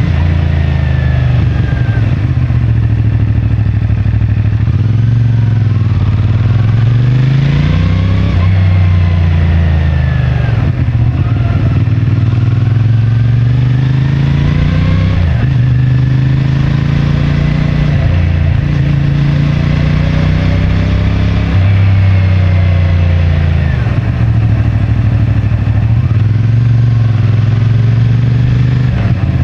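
CFMoto 450MT's parallel-twin engine on its stock exhaust, ridden at city speeds. The revs rise and drop again and again through the throttle openings and gear changes.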